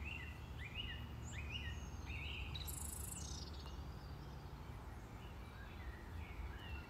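Faint birds chirping in the background: several short rising chirps in the first couple of seconds, then fewer, over a low steady hum.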